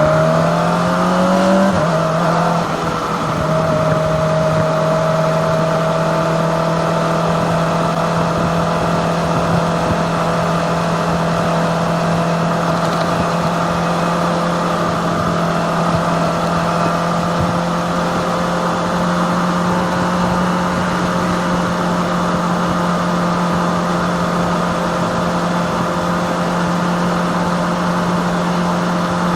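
Kawasaki ZX-25R 250cc inline-four motorcycle engine heard from on board, pulling with rising revs for the first couple of seconds, then a gear change and steady revs while cruising.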